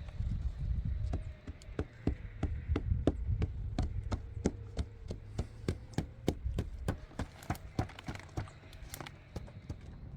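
A rapid, fairly even series of sharp knocks, about four a second, over a low rumble.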